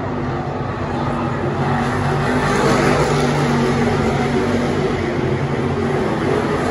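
Late model race cars' V8 engines running at racing speed, the sound swelling louder over the first couple of seconds as the cars come by, then holding.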